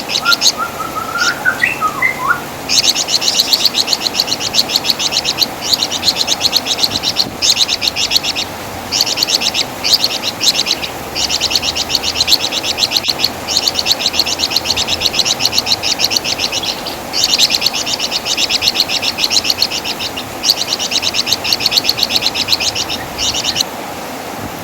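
Flamboyan (wergan Jawa) songbird giving its rapid, high-pitched chattering song (crecetan) in long bursts with short pauses between them. A few lower whistled notes rise and fall in the first couple of seconds.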